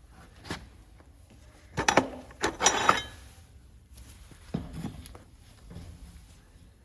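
Farrier's tools working on a horse's hoof: a quick cluster of sharp knocks and clatter about two seconds in, with a single click before it and a few lighter knocks near the end.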